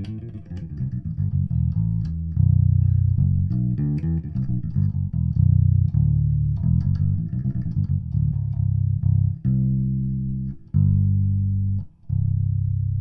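Roscoe electric bass played through a Greenboy Audio Fearless F112 1x12 bass cabinet with the amp's tone controls flat: quick lines of plucked notes with some slides, then a few longer held notes near the end.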